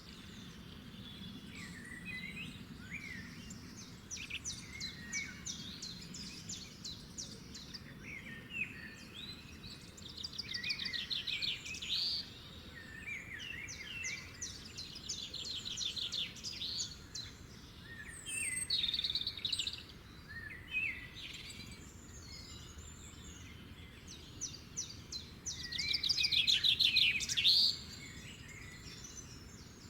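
Several wild birds singing: overlapping chirps and whistled notes with repeated rapid trills, the loudest trill near the end, over faint low background noise.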